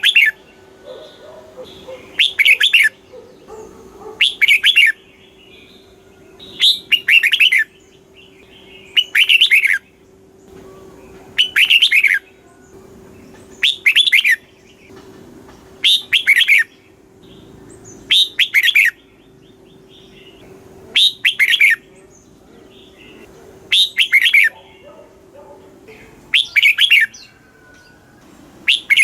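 Red-whiskered bulbul singing, one short warbled phrase after another, about every two and a half seconds.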